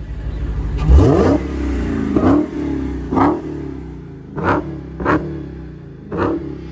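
Dodge Hellcat's supercharged 6.2-litre HEMI V8 revved through its stock factory exhaust, about six sharp throttle blips, the first about a second in and the biggest.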